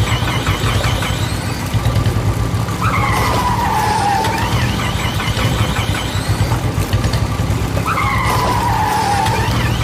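A tractor engine sound running steadily, with a falling squeal that comes back about every five seconds, repeating like a looped sound effect.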